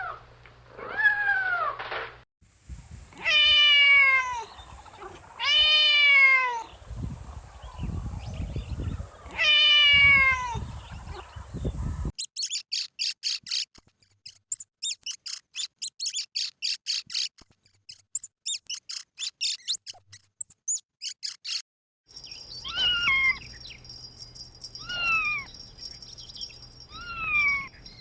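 Kittens meowing: a series of loud meows, each falling in pitch. In the middle a run of rapid, very high-pitched chirps at about three or four a second takes over for about ten seconds, then the meowing returns.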